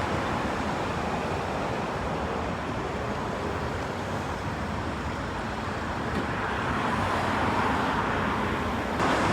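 Steady rushing outdoor background noise with no distinct events; it jumps suddenly louder near the end.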